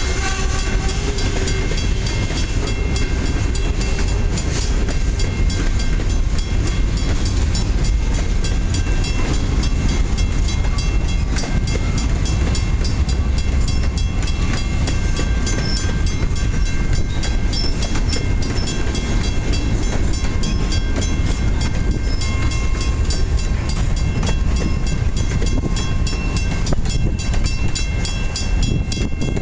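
Freight train cars rolling past at close range: a steady rumble of steel wheels on rail, with rapid clicking throughout.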